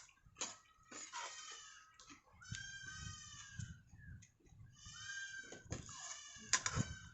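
Goat bleating: two drawn-out calls, about two and a half and five seconds in, with a few sharp knocks between them.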